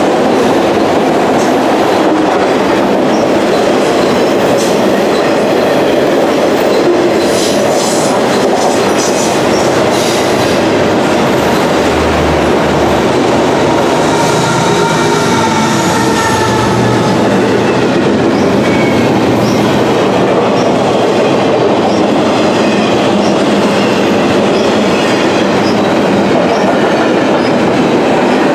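A long freight train passing at speed: steady rumble and clatter of steel wheels on the rail as autorack cars go by. About halfway through, a mid-train GE ES44AC diesel locomotive (GEVO V12) running as a remote distributed-power unit passes and adds a low engine drone. Brief high wheel squeals come through now and then.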